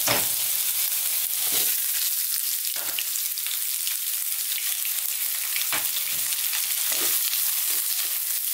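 Chopped garlic, onion and ginger sizzling in hot oil in a nonstick wok, a steady hiss with a few short knocks from ingredients and a wooden spatula against the pan.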